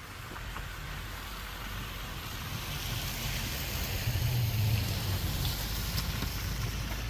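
A car driving past on a wet, slushy street: a low engine rumble and a tyre hiss that swell to their loudest about four to five seconds in, then fade slowly.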